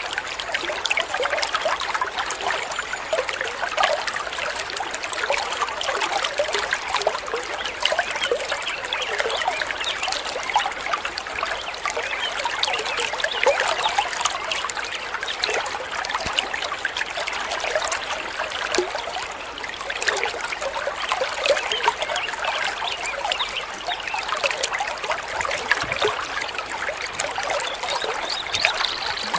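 Stream water trickling and babbling, with a steady splashy rush and many small gurgles.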